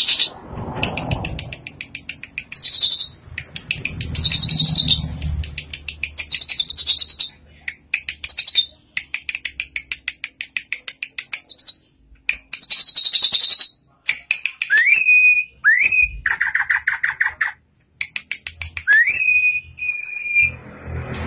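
Drongo singing: long runs of rapid, buzzy clicking chatter, broken by a couple of pairs of clear whistled notes that rise and then hold, in the second half.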